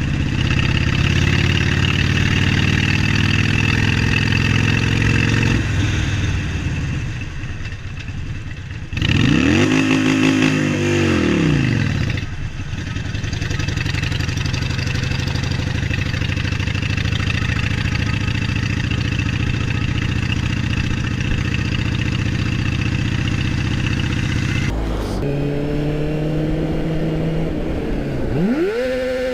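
Motorcycle engine running steadily under way. It revs up and back down twice, about nine seconds in and again near the end.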